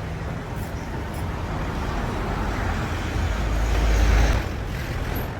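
A road vehicle passing, a low rumble over steady traffic noise that swells and peaks about four seconds in, then drops back.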